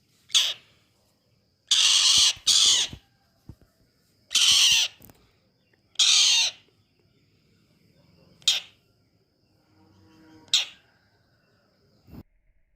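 Indian roller giving a series of loud, harsh, rasping calls, seven in all and uneven in spacing, two of them in a quick pair. A faint steady high tone runs beneath them and stops near the end.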